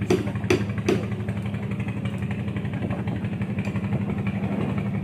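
A small engine running steadily, with three sharp knocks in quick succession in the first second.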